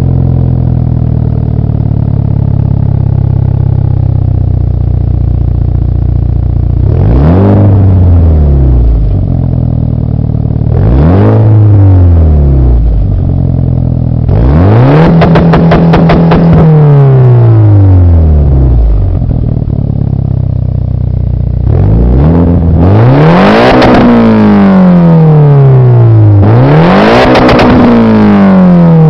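A car engine heard through its exhaust, idling for several seconds and then revved five times in neutral, each rev rising and falling back to idle; the third rev is held for a couple of seconds. This is a stationary exhaust sound test.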